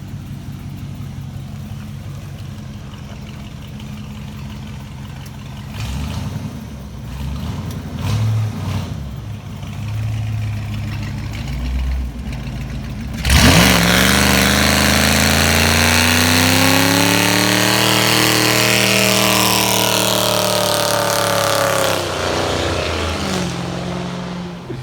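1995 Ford Mustang GT's V8 idling with a few quick throttle blips, then about halfway through it is floored into a burnout: the engine revs hard for about nine seconds, the rear tyres squealing and hissing loudly, before the revs drop back near the end.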